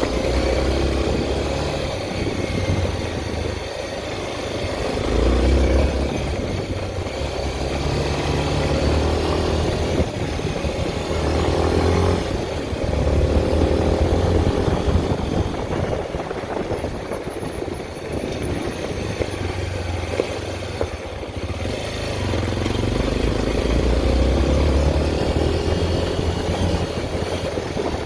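Honda XR 250 Tornado single-cylinder four-stroke engine running on the move, its note rising and falling several times as the throttle opens and closes.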